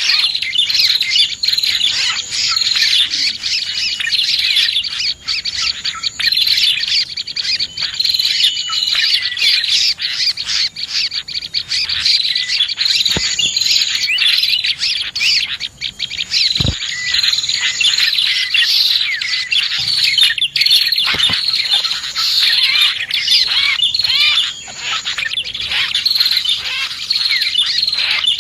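Dense, unbroken chorus of prinia (prenjak) and other small songbirds chirping and trilling over one another, the kind of bird-call recording used as a lure. A few brief low knocks sound near the middle.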